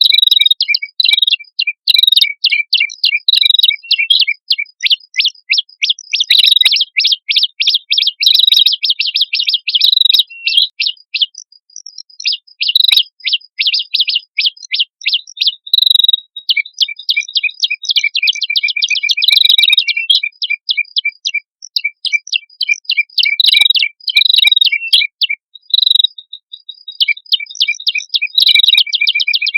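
Red-headed prenjak calling: loud, rapid chattering trills of sharp ticking notes, repeated in long bursts with brief pauses.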